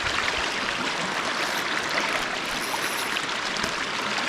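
River current running over a rocky bed: a steady rush of water.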